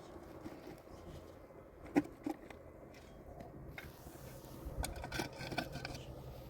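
Scattered light knocks and clicks of objects being handled, with one sharper click about two seconds in and a small cluster of knocks about five seconds in.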